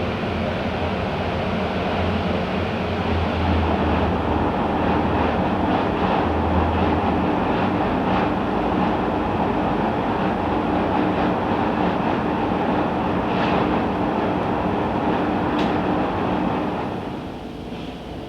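A steady mechanical rumble with a humming tone running through it. The low part of the hum fades a third of the way in, and the whole sound drops away near the end.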